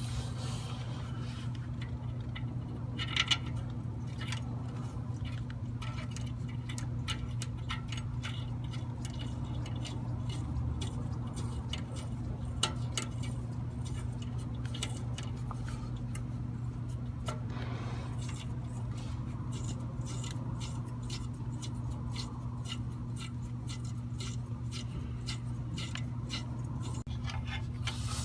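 Metal hand tools clinking and scraping in scattered light clicks and a few louder knocks as a cleaned diesel doser injector is reinstalled on the engine, over a steady low hum.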